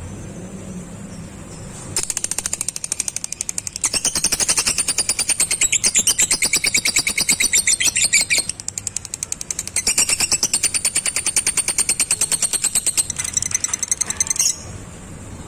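Lovebird giving its 'ngekek': a long, rapid chattering trill of high, evenly repeated notes. It starts about two seconds in, dips briefly in the middle, then runs on until it stops sharply near the end.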